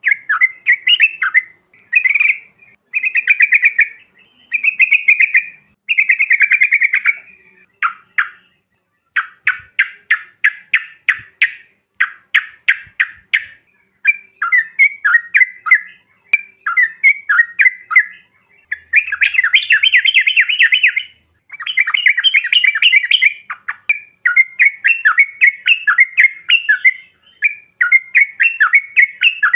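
Yellow-vented bulbuls (cucak trucuk) singing and chattering in quick bubbling phrases with short pauses between them, some run into fast rattling trills: a bulbul lure song meant to set other bulbuls singing.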